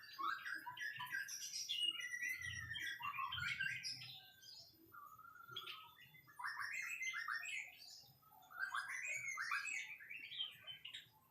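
White-rumped shama singing: quick, varied phrases of rising and falling whistles and chirps, in several bursts separated by short pauses.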